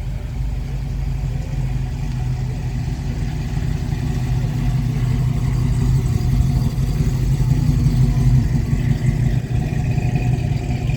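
A car engine running with a low rumble, growing louder toward the middle and easing off a little near the end.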